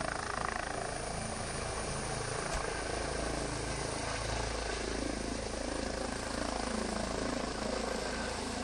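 Helicopter flying, its rotor and engine a steady drone.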